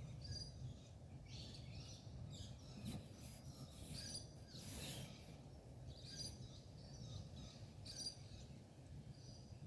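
Wild birds chirping outdoors: short, high chirps repeated every second or two, over a steady low background rumble.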